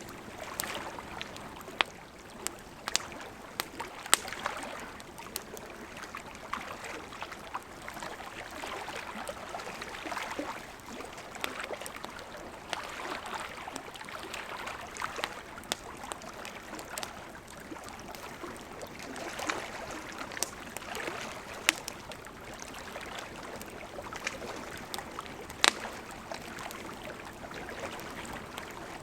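Campfire crackling, with scattered sharp pops from the burning wood, over the gentle lapping of lake water against the shore, which comes in soft, uneven swells.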